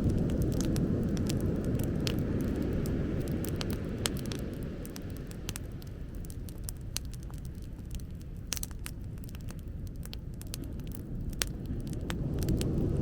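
Bonfire crackling with frequent sharp pops, over a low steady rumble that eases off in the middle and swells again near the end.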